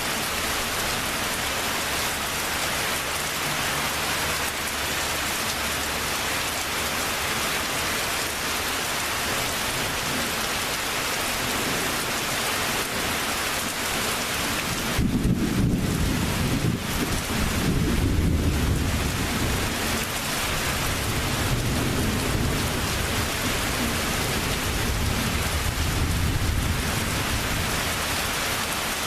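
Steady rain falling throughout. About halfway through, thunder breaks in with a long low rumble that rolls on for about ten seconds before fading back under the rain.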